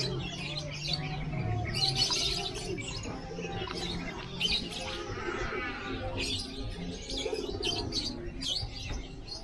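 Many caged birds chirping at once, their calls overlapping throughout.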